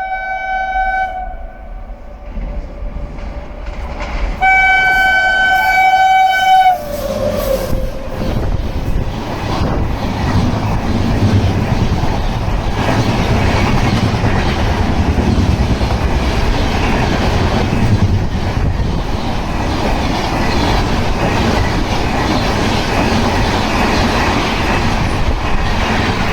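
Indian Railways train horn: one blast ending about a second in, then a second blast of about two seconds whose pitch sags as it dies away. After that the train runs past with a loud, steady rumble and clatter of wheels on the rails.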